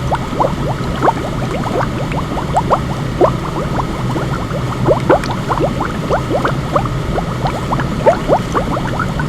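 Water bubbling: many small bubbles popping, several a second, each a short rising blip, over a steady hiss of white noise.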